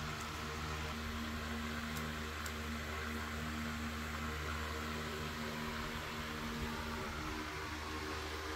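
A steady mechanical hum: a low drone with a few steady tones over an even hiss, unchanging throughout.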